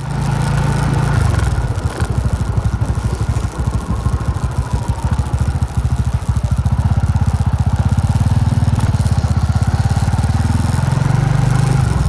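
Motorcycle engine running steadily while riding, with small changes in engine speed near the start and again near the end.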